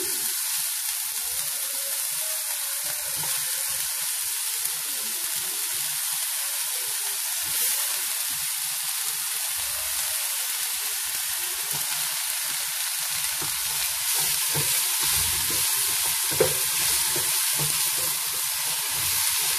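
Chopped onion and tomato sizzling as they fry in oil in a pan. A wooden spatula stirs them, scraping and knocking against the pan, more often in the second half.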